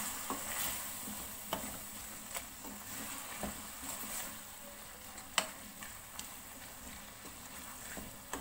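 Keema (minced meat) with tomatoes and spices sizzling in a pan over a high flame while it is stirred, with a steady hiss and a utensil knocking against the pan several times, the loudest knock about five seconds in.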